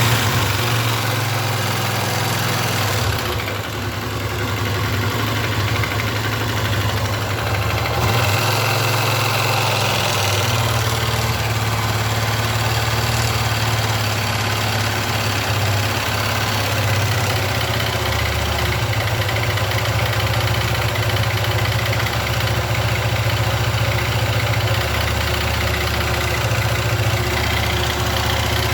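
Engine idling steadily with a noise that the owner takes for piston noise, a sign of a worn piston.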